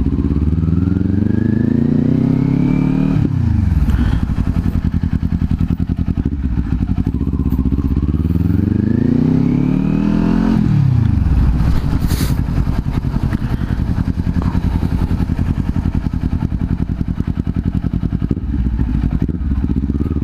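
Kawasaki Z400 parallel-twin engine pulling under acceleration twice, its pitch climbing for several seconds and then dropping away sharply each time, before running at a steadier pitch.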